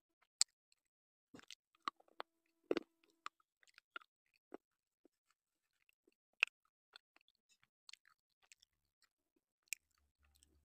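Close-miked chewing of white slate pencil: sharp, irregular crunching clicks at uneven intervals, a few of them much louder than the rest.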